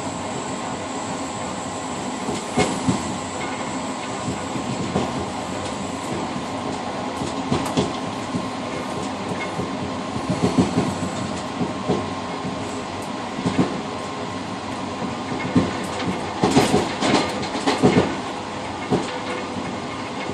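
Interregional passenger train running, heard from inside the cab vestibule of its rear car: a steady rumble with irregular clicks and knocks of the wheels over rail joints, coming thickest in a cluster about three-quarters of the way through.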